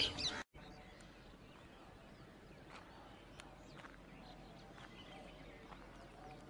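Faint open-air ambience with a few short, scattered bird chirps.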